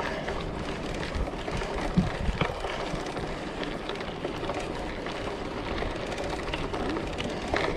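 Steady rumbling noise of riding a hybrid bike along a trail, with a couple of light clicks about two seconds in.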